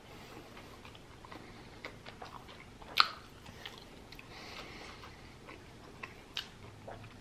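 Close-miked chewing of a mouthful of lamb gyro in pita, with small wet mouth clicks and one sharper, louder click about three seconds in.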